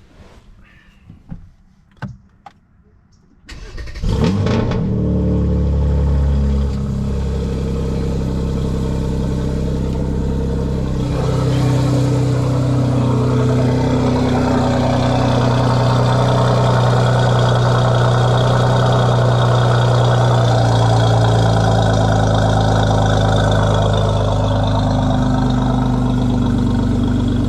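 A few clicks, then the 2020 Mercedes-AMG C43's twin-turbo V6, tuned to DME Stage 2 with downpipes, starts about four seconds in with a loud flare. It drops back after a couple of seconds and settles into a steady idle.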